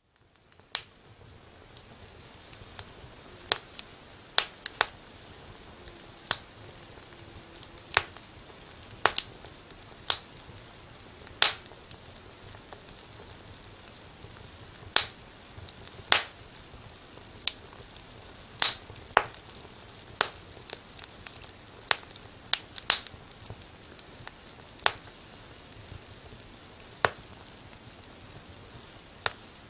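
Fire in a fireplace crackling: irregular sharp pops, mostly a second or two apart and now and then in quick clusters, over a steady faint hiss.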